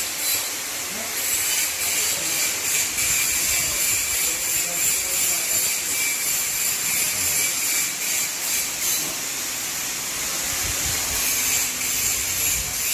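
Mitsubishi 6D14 six-cylinder diesel engine of a rice mill running steadily on test: a loud, continuous machine noise, strongest in the high range.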